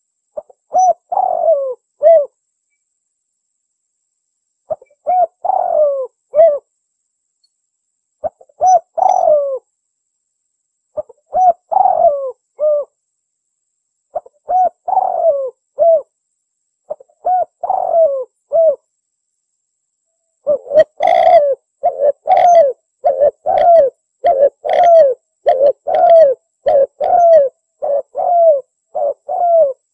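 Spotted dove (tekukur) cooing in short repeated phrases of several soft, pitched coos, a phrase every three seconds or so; about two-thirds of the way through the coos come faster and louder, almost without pause. It is a lure call for drawing wild spotted doves.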